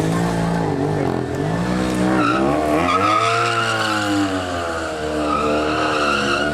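Motorcycle engine revving up and down. From about two seconds in, a tyre squeals against the pavement alongside it.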